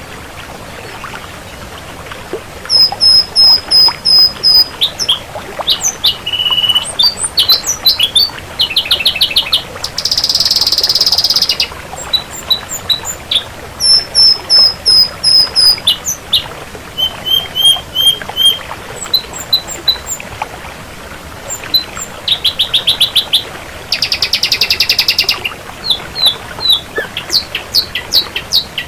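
Ashy drongo singing a varied song of quick runs of repeated high notes, slurred whistles and harsh buzzy rasps, starting a few seconds in over a steady background hiss.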